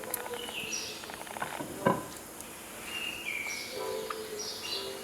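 Firewood crackling in a wood stove with small ticks and one sharper pop about two seconds in, under soft background music with held notes.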